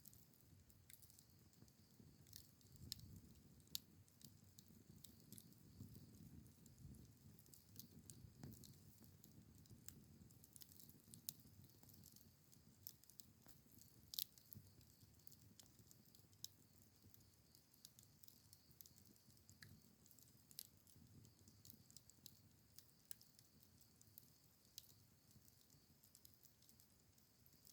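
Wood campfire crackling, with irregular sharp pops and snaps over a faint low rumble of the flames.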